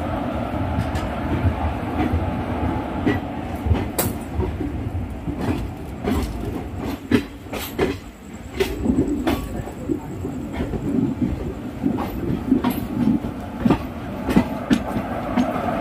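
Passenger train running along the track: a steady low rumble with irregular sharp clicks and knocks of the wheels over the rail joints.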